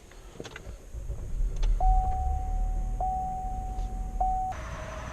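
Car engine running with a low rumble after a few clicks, while a steady electronic warning tone sounds for about three seconds with two short breaks.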